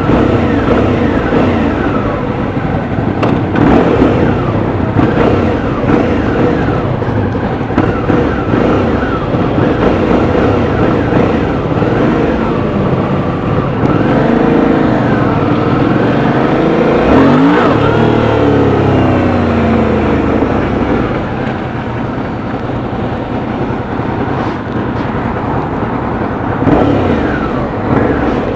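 Suzuki V-Strom 650's V-twin engine running under way, its pitch climbing and dropping as it is accelerated and shifted, over a steady rush of wind. A marked swoop up and down in pitch comes about two-thirds of the way through.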